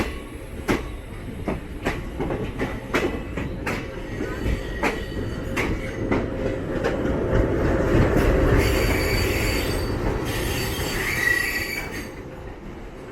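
Passenger train coaches slowing into the terminus: the wheels clack over rail joints and pointwork, with a run of sharp clicks for the first six seconds over a low rumble. From about eight and a half to twelve seconds a hiss and squeal of braking comes in, then it eases.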